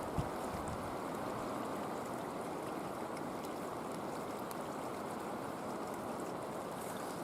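Creek water running steadily, with one short soft thump just after the start.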